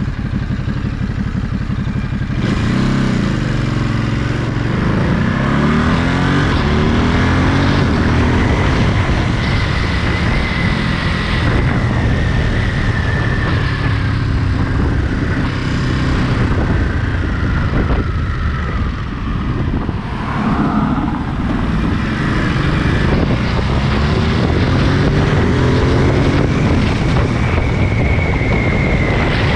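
Ducati Monster 937's 937 cc L-twin engine riding on, its pitch climbing in repeated sweeps as it accelerates through the gears, with a brief drop about two-thirds of the way in. Steady wind noise runs underneath.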